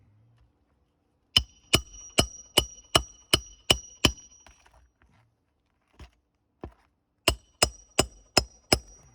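Hammer blows driving roofing nails into asphalt shingles, each strike with a bright metallic ring. A quick run of about eight blows, two light taps, then another run of about five.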